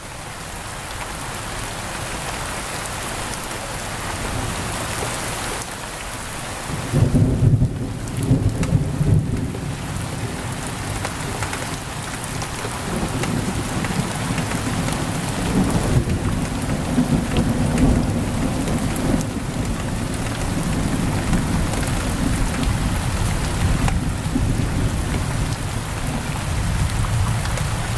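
Heavy rain pouring steadily on a window, with thunder: a loud rumble breaks about seven seconds in, peaks over the next few seconds, then rolls on low under the rain.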